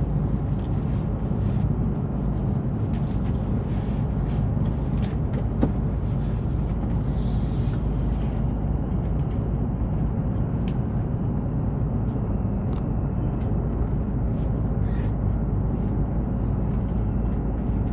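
Steady low running rumble of an E7/W7 series Shinkansen train at speed, heard inside the passenger cabin, with a few faint clicks.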